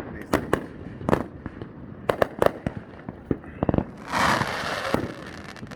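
Fireworks going off, a quick run of sharp bangs and pops. About four seconds in there is a dense rush of noise lasting about a second.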